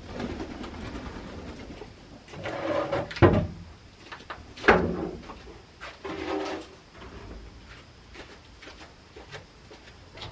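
Hens clucking softly in a chicken coop, with a couple of sharp knocks about three and four and a half seconds in.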